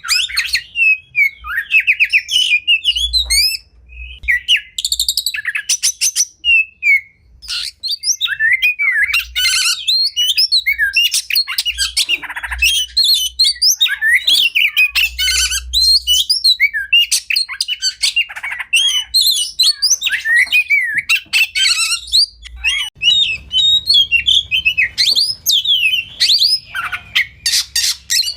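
Oriental magpie-robin (kacer) singing a continuous, fast and varied song of gliding whistles, trills and rapid runs of ticking notes, with only brief pauses.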